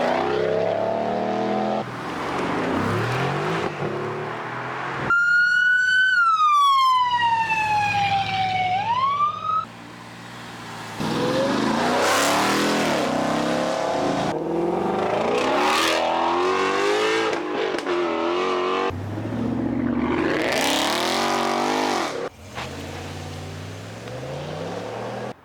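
A run of short clips of V8 muscle cars revving and accelerating hard, their exhaust note sweeping up in pitch. About a quarter of the way in, a police siren wails for a few seconds, falling and then rising, before the engines come back.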